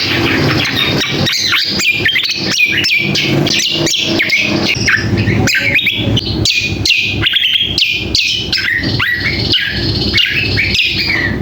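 Cucak kombo singing a busy, noisy lure song: a dense, rapid run of short chirps and sharp falling whistles with hardly a pause, the calling song used to draw in males.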